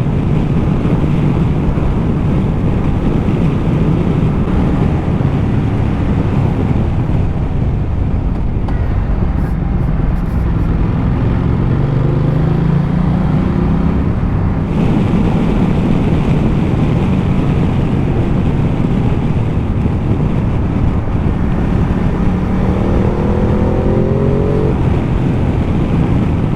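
Ducati Multistrada 1200's V-twin engine pulling on the move under heavy wind rush over the microphone. Its note rises in pitch as it accelerates, once about halfway through and again near the end.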